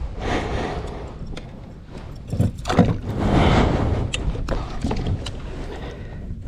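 Wind and water rushing and sloshing around a small kayak on open water, swelling and easing, with a few light knocks against the hull.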